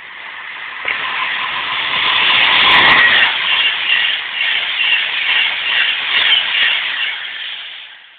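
Class 390 Pendolino electric train passing through the station at speed: the rush of wheels on rail and air swells to a peak about three seconds in, then fades away as the train runs off.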